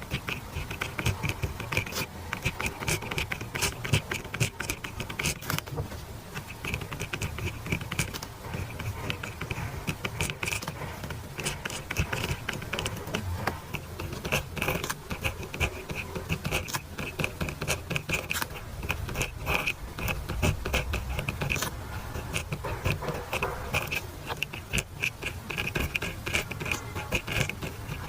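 Pen scratching across paper in continuous handwriting, with many small ticks as strokes start and lift.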